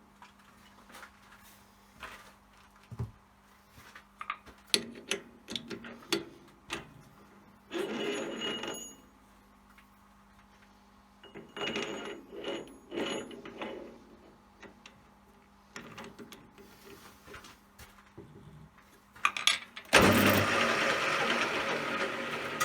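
Workshop handling noise at a metal lathe: scattered metallic clinks, knocks and short rattling stretches, then near the end a loud, sudden rushing noise that slowly dies away.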